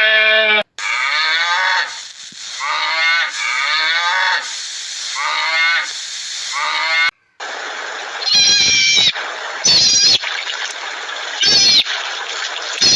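Animal calls in two cut-together clips. First comes a run of about five repeated calls that dip and then rise in pitch. After a brief break come four short, high-pitched calls over a steady noisy background.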